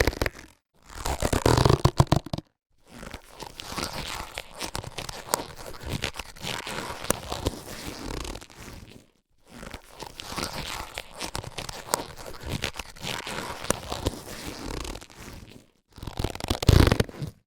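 Latex surgical gloves being handled, stretched and rubbed: a dense crackling rustle for most of it, with louder bursts of stretching latex near the start and near the end.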